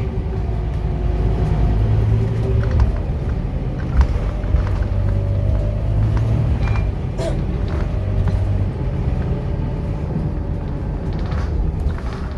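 Scania K230UB city bus running, a steady low rumble with engine and driveline tones that drift gently up and down in pitch as it drives. A couple of sharp knocks or rattles come through, about four and seven seconds in.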